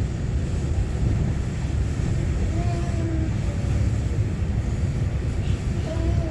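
Steady low rumble of an EMU900-series electric multiple unit (EMU923) running on the line, with wheel-on-rail noise heard from inside the passenger car.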